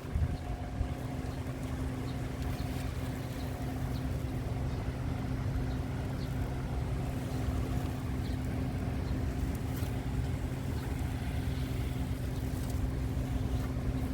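Steady engine and road hum of a car driving at an even speed, heard from inside the cabin.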